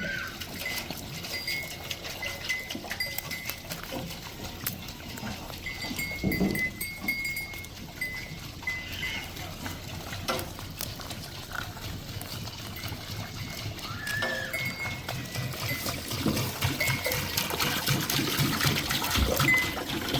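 Goat herd with bells: the bells clink and ring in short, irregular bursts, with an occasional bleat.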